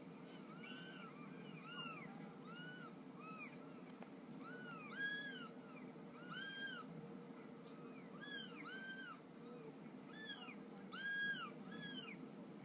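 High, thin mewing calls like a kitten's, repeated over and over, each a short rising-then-falling cry, sometimes in quick pairs, more than one a second.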